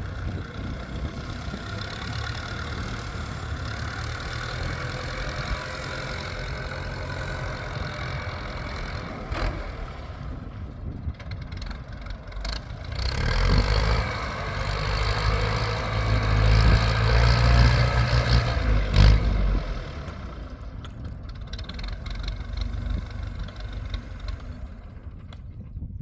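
An engine running steadily, growing louder for about six seconds in the middle and then dropping back, with a few sharp knocks.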